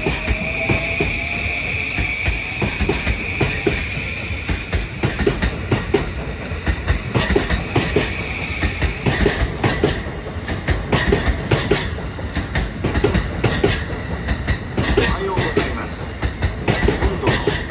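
A JR East Yokosuka–Sobu Line electric train running past along the platform: a fast, continuous clatter of wheels over rail joints over a steady rumble, with a high steady whine that fades out about halfway through.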